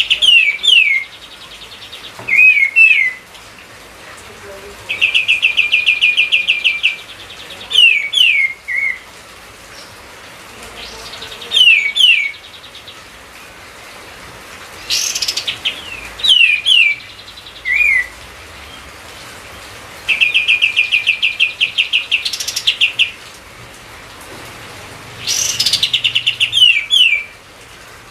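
A kapas tembak songbird singing over and over. Each phrase mixes a fast trill of rapid notes with a few quick downward-sliding whistles, and a new phrase comes every few seconds.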